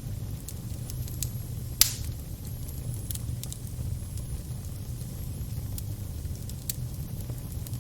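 Fire crackling over a steady low roar, with scattered sharp snaps and one loud pop about two seconds in.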